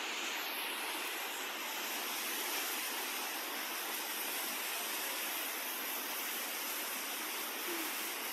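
Heavy rain pouring down, a steady even hiss with no thunder.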